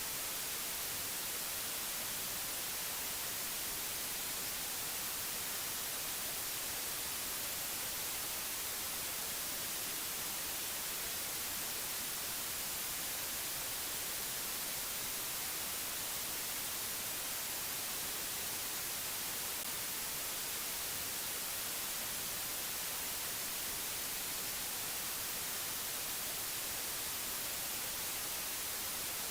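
Steady white-noise hiss, even and unchanging, strongest in the high frequencies, with no other sounds.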